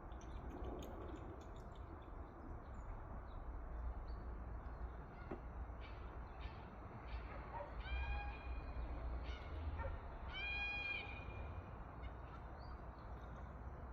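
A bird calls twice, about two seconds apart, each a short pitched call, over a steady low rumble.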